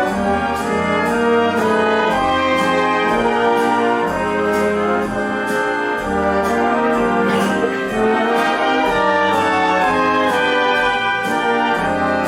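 Theatre pit orchestra playing a bright, brass-led show tune with a steady beat.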